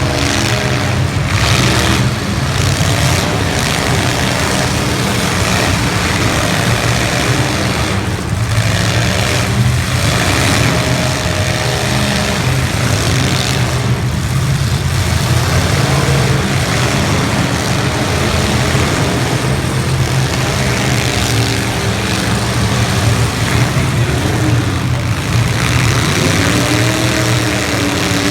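Demolition derby cars' engines running loud and revving, the pitch repeatedly rising and falling, with a few sudden bangs of cars colliding.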